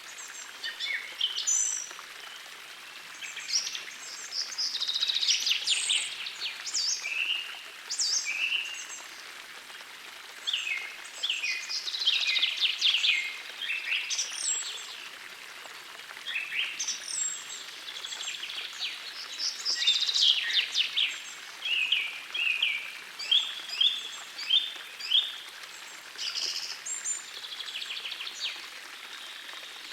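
Several songbirds singing in short, quick phrases and trills, one after another, over the steady rush of a gentle forest stream.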